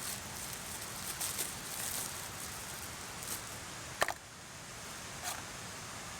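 Steady rush of a mountain stream, with rustling handling sounds over it in the first two seconds, a sharp click about four seconds in, and a softer click a second later.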